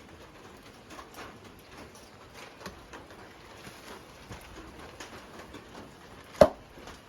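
Faint scattered ticks and taps, with one sharp, loud knock about six and a half seconds in.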